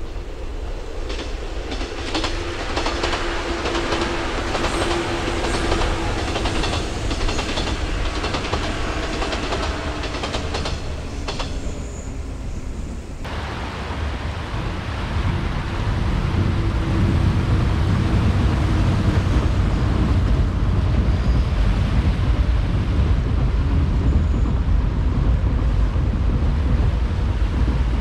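JR 185 series electric train running past, its wheels clicking over rail joints with a steady hum. About 13 seconds in the sound cuts to surf breaking on the shore and wind on the microphone, with the train fainter underneath.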